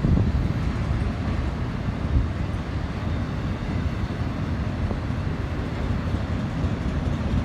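BNSF auto train (a freight train of autorack cars) running past on the grade, a steady low rumble.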